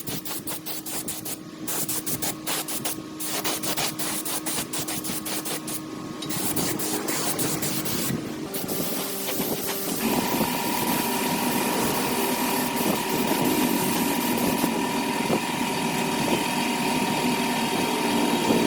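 Quick scraping or rubbing strokes, then from about ten seconds in a small motor running steadily with a high, even hum.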